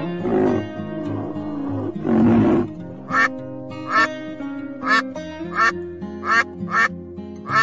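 A duck quacking in a steady series of short, sharp quacks, about one every three-quarters of a second from about three seconds in, over background music. Two louder, rougher calls come before the quacking.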